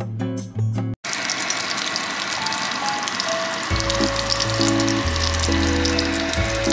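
A coated bread sandwich frying in shallow oil in a frying pan, sizzling steadily with fine crackles. Music plays for the first second until a sudden cut, and background music with a bass line comes in again about halfway.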